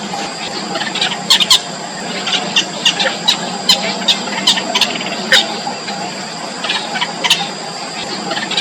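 Yellow bittern nestlings squeaking in the nest: short, sharp, high squeaks in irregular clusters, a few each second at times, over a steady high-pitched background whine.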